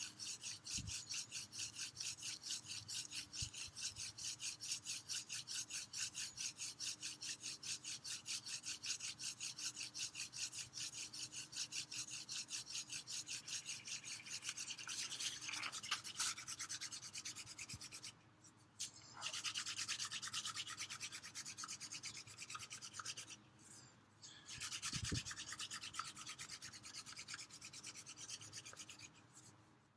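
Hand-drill fire-lighting: a cattail spindle spun back and forth between the palms, its tip grinding into a basswood hearthboard in a fast, even rhythm of rasping rubs. The drilling stops briefly three times.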